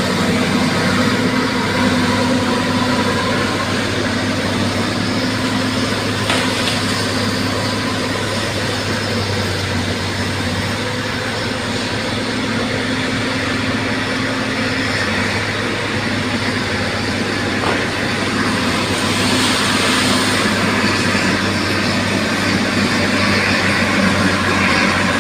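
Bulldozer's diesel engine running steadily at work, a continuous low drone that changes little in level.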